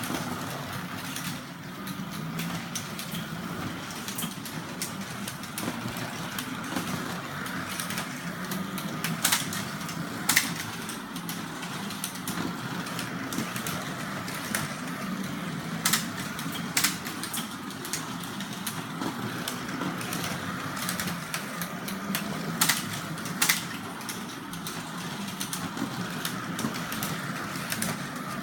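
Carrera slot cars running on a plastic track: a steady electric-motor whir with many small clicks, broken by a few loud, sharp clacks.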